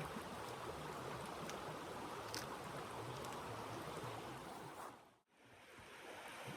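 A steady rushing noise with a few faint ticks. It fades out to near silence about five seconds in, then comes back.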